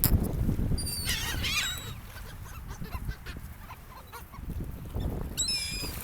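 Seagulls calling: a cluster of high, gliding calls about a second in and another falling call near the end, over a low steady rumble.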